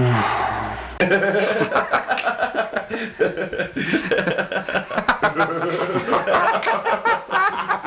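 A voice gliding down in pitch fades out, then about a second in, human snickering and chuckling laughter starts abruptly and continues in quick, choppy bursts.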